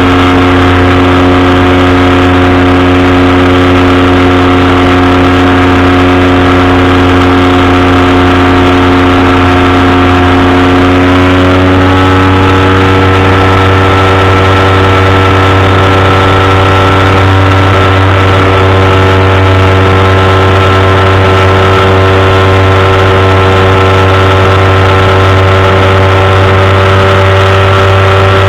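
Powered parachute's engine and propeller running loud and steady, the pitch rising a little about halfway through as the engine speeds up, then holding.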